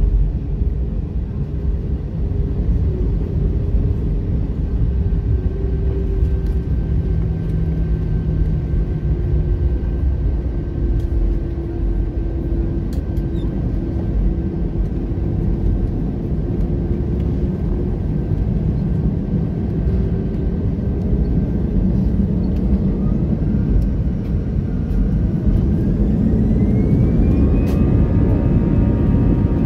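Cabin noise of an Airbus A320 on the ground: a steady low rumble with a faint engine hum. Near the end a whine rises in pitch and then holds while the noise grows a little louder, as the jet engines spool up, which is typical of thrust being set for the takeoff roll.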